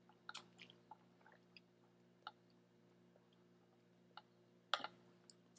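Quiet chewing of a taco: a few soft, scattered mouth clicks, with a slightly louder pair near the end, over a faint steady hum.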